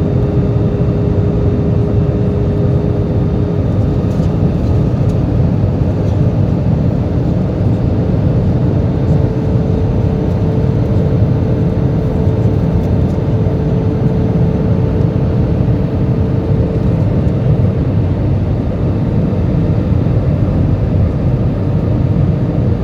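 Steady cabin noise of an Airbus A320 in flight, heard from a seat over the wing: a deep drone of engines and airflow, with a faint engine tone that steps up slightly about six seconds in.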